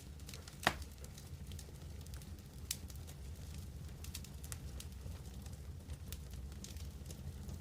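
Wood campfire crackling, with scattered sharp pops (the loudest about a second in) over a low, steady rumble.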